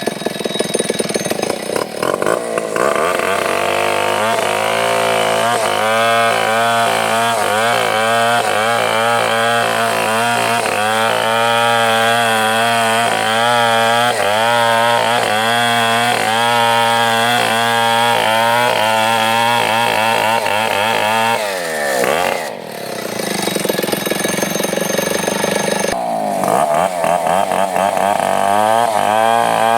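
Two-stroke chainsaw running under load through wood, its engine pitch wavering up and down as the chain bites. About 22 seconds in the pitch sweeps down briefly, then the saw picks up and runs on.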